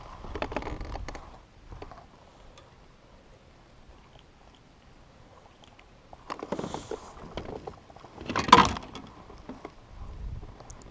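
Knocks and rubbing on a fishing kayak in three short spells, the loudest a sharp thump about eight and a half seconds in.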